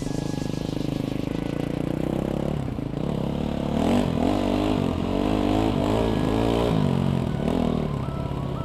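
Dirt bike engine running on the move, its note rising and falling repeatedly through the middle stretch as the throttle is worked.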